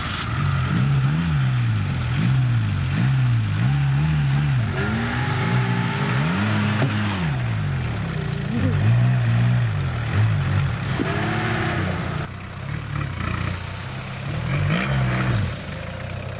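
Diesel LuAZ-969's 1.6-litre engine revving up and down over and over under load as the 4x4 drives through mud and climbs out of a ditch.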